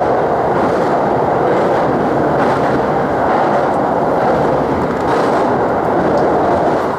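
Running noise heard inside a moving commuter train: a steady rumble of wheels on rail.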